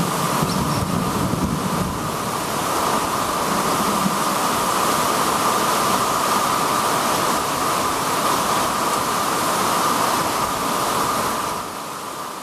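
Heavy rain pouring down, a steady dense hiss that fades out near the end.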